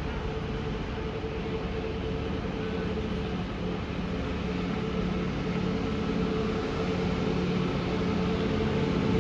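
A train's steady engine drone with a held hum, growing gradually louder.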